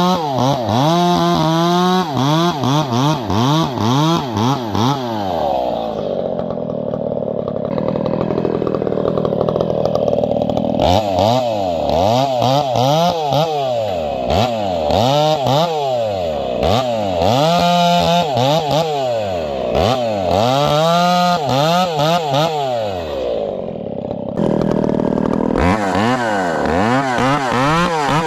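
Two-stroke chainsaw revving up and down over and over while cutting firewood, with a stretch held at steady high revs about six to eleven seconds in.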